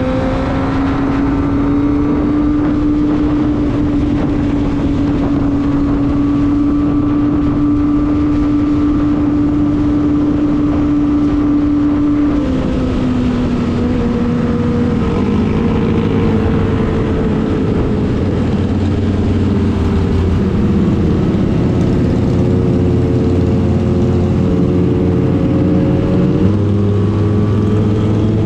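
Kawasaki ZX-25R's 250 cc inline-four engine running under steady throttle, its note creeping slightly higher for about twelve seconds and then dropping. After that the note shifts around at lower revs, over a steady rushing noise.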